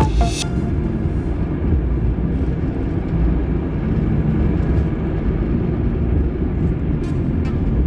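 Steady low engine and road rumble inside a moving car.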